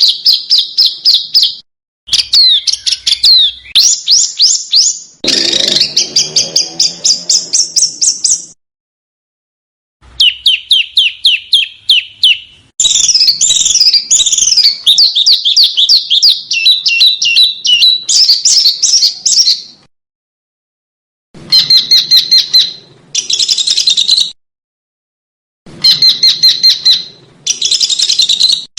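Small songbird singing in rapid strings of sharp, high chirps. The phrases last a few seconds each, with brief pauses between them, the fast 'tembakan' style of song used as masteran to train cage birds.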